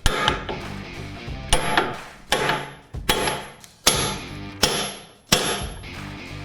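Hammer blows on a steel drift punch, driving a worn pin or bushing out of a skid steer's quick-attach carriage: about seven sharp metallic strikes a bit under a second apart, each ringing briefly.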